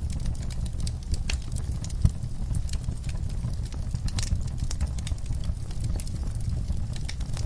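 Wood fire burning in a fireplace: a steady low rumble of the flames with irregular sharp crackles and pops from the burning logs, one louder pop about two seconds in.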